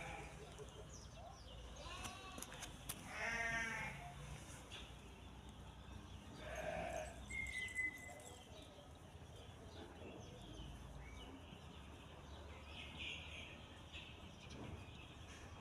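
Cats meowing: one long, wavering meow about three seconds in, and a shorter meow about seven seconds in, over low background noise.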